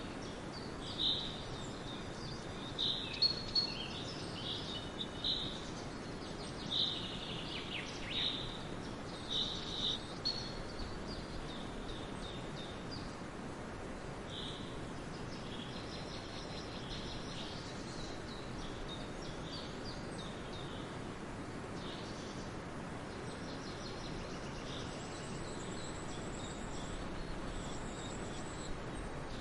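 Small birds chirping in short, high calls over a steady background hiss, with a dense run of chirps in the first ten seconds and only a few scattered ones after.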